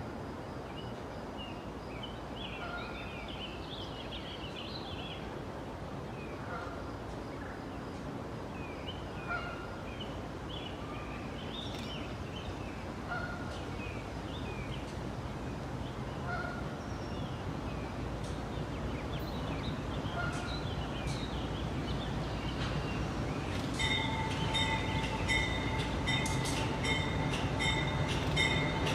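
Small birds chirping, with a short call repeating about every two seconds, while a low train rumble slowly grows louder. About five seconds before the end, a repeated bell-like ringing starts and keeps on, marking the train's approach.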